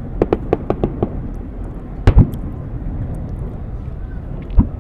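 Fireworks going off: a quick run of sharp cracks in the first second, a loud bang about two seconds in and another near the end, over a steady low rumble.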